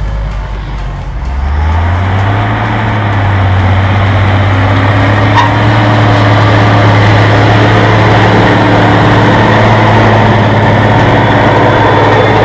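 IHC 1455 XL tractor's six-cylinder diesel engine picking up revs about a second in, from a low speed to working speed, then running steady under load while drilling maize.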